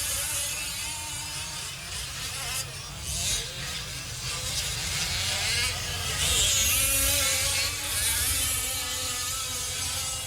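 Several 5th-scale RC off-road race trucks' small two-stroke gas engines buzzing, their pitch rising and falling as they throttle on and off around the track, with bursts of hiss.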